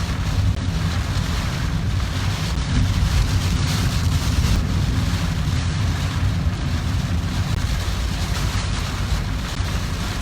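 Heavy typhoon rain beating on a moving car and tyres hissing on the flooded road, heard from inside the car as a steady rushing noise over a low rumble.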